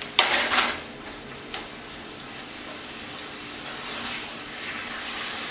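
Chicken breast in a thick honey-balsamic sauce sizzling in a skillet on an electric coil burner. A short, loud rush of sizzle and clatter comes just after the start as the skillet is set back on the hot burner, then a steady sizzle continues while the chicken is turned in the pan.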